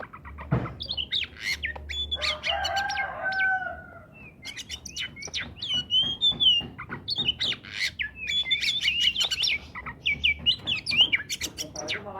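Oriental magpie-robin (kacer) singing a fast, varied song of whistles and sharp chattering notes, with a short pause about four seconds in. A single knock comes just after the start, and a lower drawn-out call sounds between about two and three and a half seconds.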